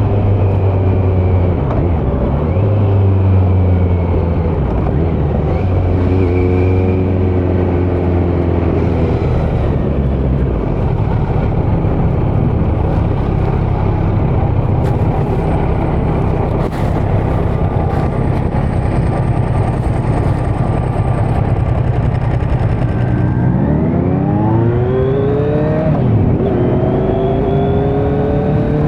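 Kawasaki Z900's inline-four engine through a Leo Vince muffler with no dB killer, running at steady revs with a couple of brief dips. About two-thirds of the way in it revs up hard in a rising pull, then shifts gear and pulls up again near the end.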